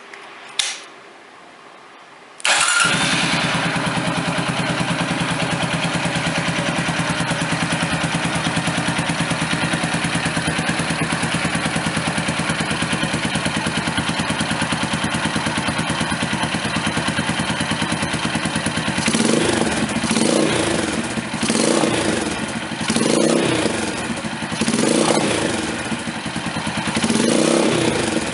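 Honda FTR223 single-cylinder motorcycle with a Supertrapp exhaust and K&N air filter starting up about two and a half seconds in, then idling steadily. In the last third the throttle is blipped several times, the exhaust note rising and falling with each blip.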